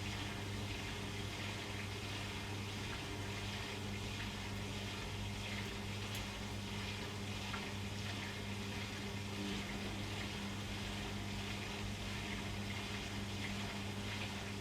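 Beko washing machine partway through its cycle: water rushing through it over a steady electrical hum from a pump or valve.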